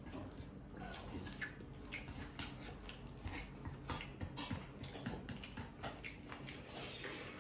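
A person chewing a mouthful of noodles close to the microphone, with many small wet clicks and smacks.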